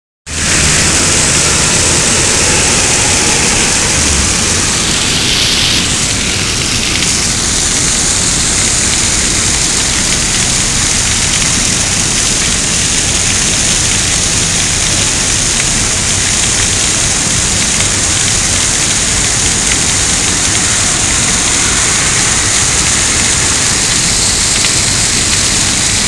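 Torrential rain pouring down in a loud, steady hiss, splashing on the pavement.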